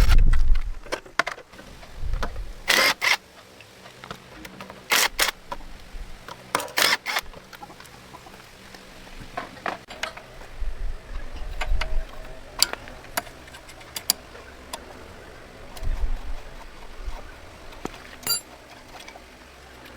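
Irregular sharp metallic clicks and knocks from hand tools and metal parts being handled, with a few short low thumps scattered between them.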